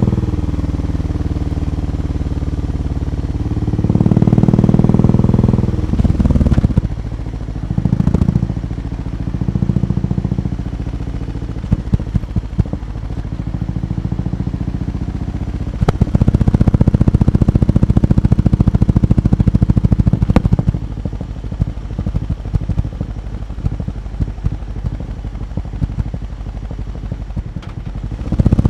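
Exhaust of a BMW R18 B's 1.8-litre boxer twin running, the engine speed and loudness rising and falling several times, with a longer louder stretch about two-thirds of the way through.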